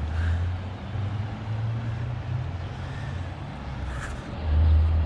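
Low, steady rumble of a motor vehicle, growing louder near the end.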